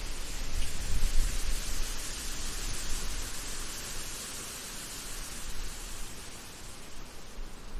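Wind blowing through forest trees: a steady hiss that swells and eases, with low rumbling gusts on the microphone, loudest about a second in.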